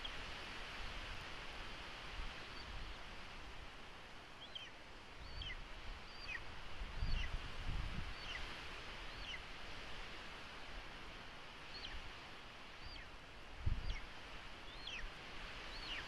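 A bird calling: a series of short, thin, high notes, each sliding down in pitch, repeated irregularly a second or so apart over a steady hiss of wind and outdoor noise, with a few low bumps.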